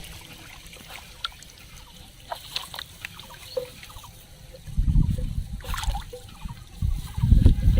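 Water trickling and sloshing with scattered small clicks; about five seconds in, a loud low rumble comes in and pulses on to the end.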